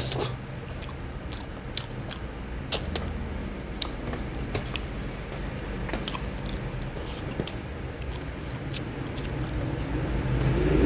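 Close-up mouth sounds of a person chewing boiled pork and rice: wet smacks and clicks, scattered and irregular.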